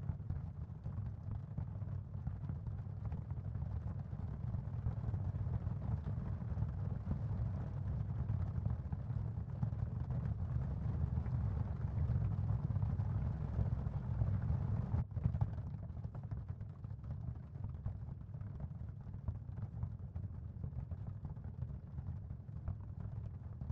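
Steady ambient sound field of the kind used as tinnitus and sleep masking: an even, low rumbling noise with a faint hiss above it. It breaks off for a split second about fifteen seconds in.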